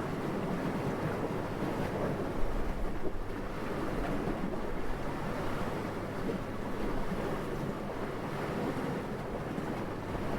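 Steady, soft rushing wind, with one brief stronger gust about two and a half seconds in.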